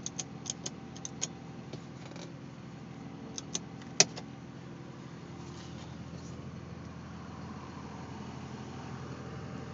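Twin-turbo V6 of a 1992 Dodge Stealth R/T Twin Turbo idling steadily, heard from inside the cabin, with a handful of sharp clicks and taps in the first half, the loudest about four seconds in.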